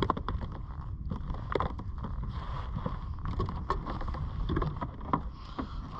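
Wind buffeting an action camera's microphone that has no windsock, a steady low rumble, with many scattered sharp clicks and knocks over it.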